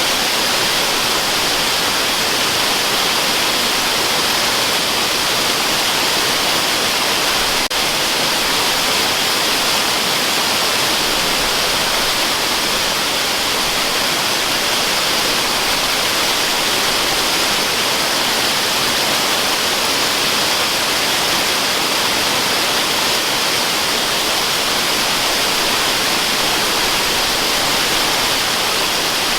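Waterfall rushing in an even, unbroken hiss that is strongest in the upper range, with one brief click about eight seconds in.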